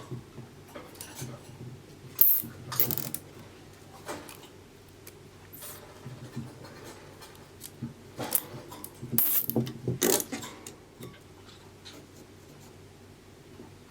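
Hand-work sounds: scattered sharp clicks, taps and rubbing of tools and small parts being handled. The loudest knocks come about two seconds in and again around nine to ten seconds.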